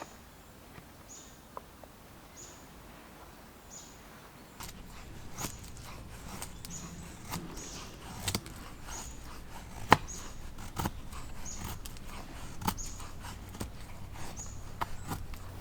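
A small bird repeating a short, high chirp at an even pace, about once every 0.7 seconds. From about four and a half seconds in, irregular sharp clicks and knocks join over a low rumble, with one louder knock near ten seconds.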